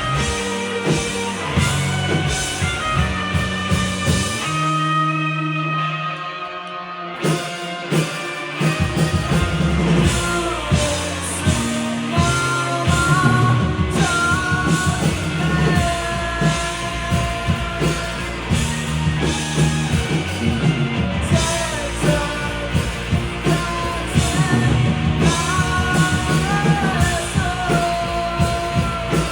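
Live rock band playing: drums, bass and electric guitar, with a singer. Around five seconds in the drums drop out under a held low bass note. The full band crashes back in about seven seconds in, and singing carries on from about ten seconds.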